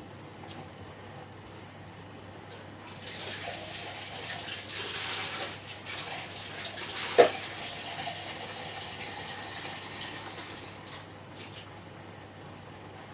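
Water running, rising for about eight seconds and then fading, with a single sharp knock about seven seconds in.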